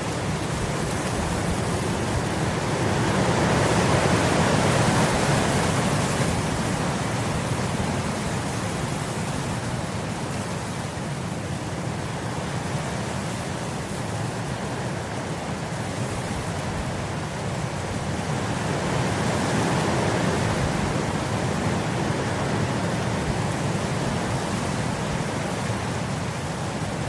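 Wind blowing steadily across grass as an even rushing noise, swelling in two gusts: one about four seconds in and one about twenty seconds in.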